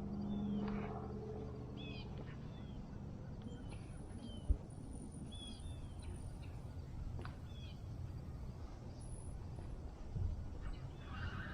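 Small birds chirping repeatedly in short curved notes over a steady low rumble of wind, with a single sharp thump about four and a half seconds in.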